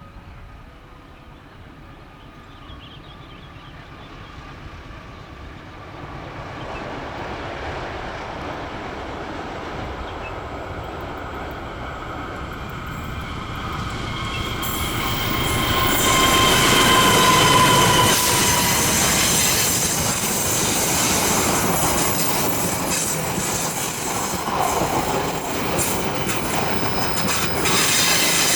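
Long train approaching and passing, growing louder from about six seconds in. Wheel squeal comes in near the middle, and the wheels click over the rail joints through the second half.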